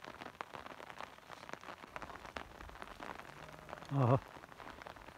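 Light rain patters as a steady scatter of small ticks. About four seconds in, one loud, short, wavering bleat comes from an animal in a flock of sheep and goats.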